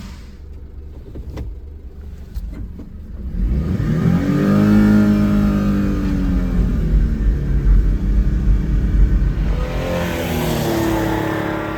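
Mitsubishi Minicab kei truck's small three-cylinder engine pulling and accelerating. Its pitch climbs about four seconds in, holds steady, and climbs again near the end. A few light clicks come in the quieter first seconds.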